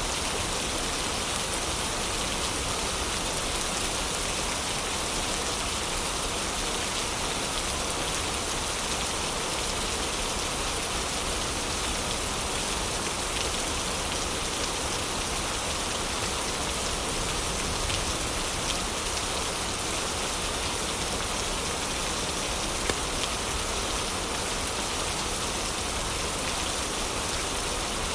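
Steady heavy rain hissing evenly, with a few brief sharp crackles from a wood fire in the middle of the stretch.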